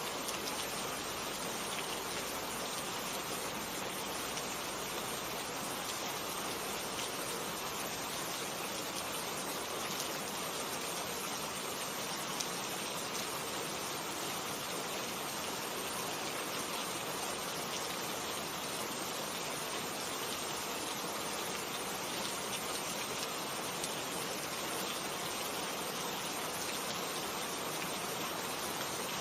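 Steady rainfall, an even hiss of rain with scattered drop ticks and no thunder.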